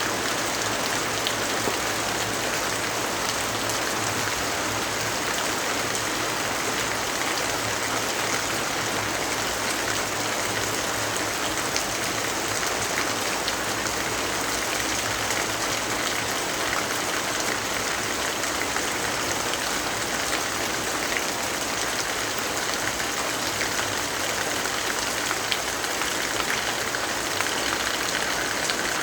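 Steady rainfall, an even hiss with scattered faint drip ticks.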